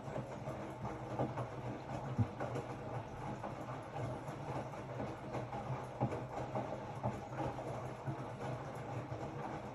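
Hotpoint-Ariston RSG 825 J washing machine running mid-cycle: a steady motor-and-drum hum with irregular light knocks.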